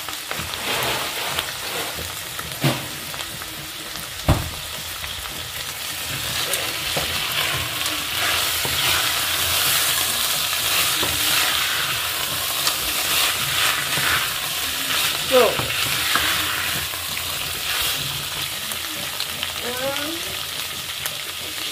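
Diced vegetables and peas sizzling in a stainless steel pot while a wooden spoon stirs them, with two sharp knocks a few seconds in.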